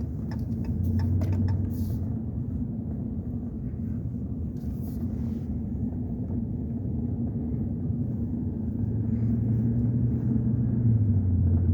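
Vehicle engine and road noise heard from inside the cab during driving, a steady low drone that swells a little about a second in and again near the end. A row of evenly spaced clicks, typical of a turn signal, stops about two seconds in.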